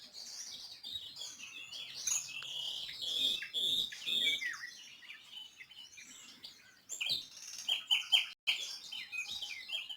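Small birds chirping and twittering, many short overlapping calls, busiest a few seconds in.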